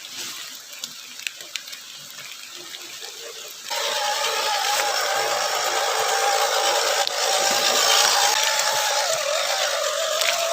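Quiet with a few light ticks, then a few seconds in an Axial SCX10 1/10-scale RC crawler's electric motor and gears suddenly start whining steadily, with a hiss above the whine.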